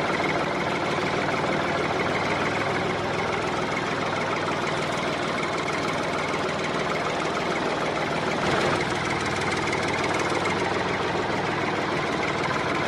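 Small motor running steadily, with a brief rise in loudness about eight and a half seconds in.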